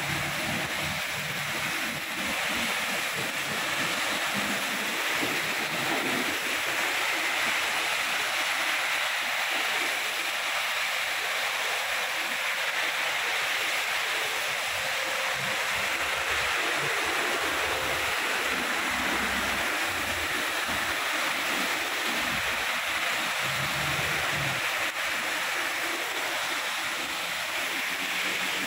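Heavy rain falling steadily, a dense even hiss, with low rumbles of passing road traffic now and then.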